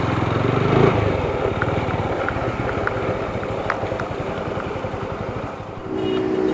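Single-cylinder motorcycle engine running steadily with an even firing pulse.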